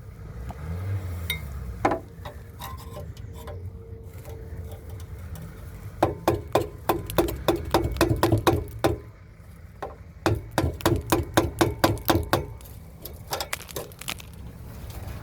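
Rapid metallic clinking, about eight sharp strikes a second, in two runs of two to three seconds each, over a steady low hum.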